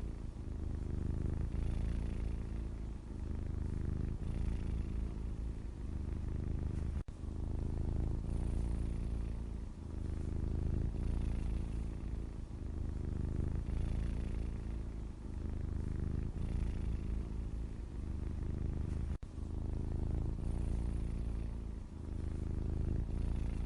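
Grey domestic cat purring close up, a steady low rumble that swells and eases every two to three seconds.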